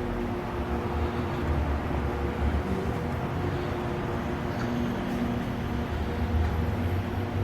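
2004 Haas TL-2 CNC lathe running under power: a steady machine hum with a low rumble and several constant tones.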